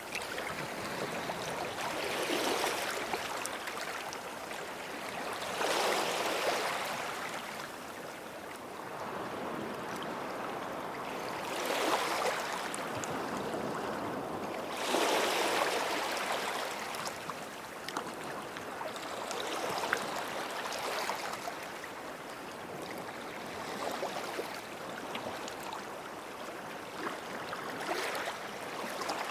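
Small sea waves washing onto a sandy beach at the water's edge. Each wash swells up and fades away, every three to six seconds.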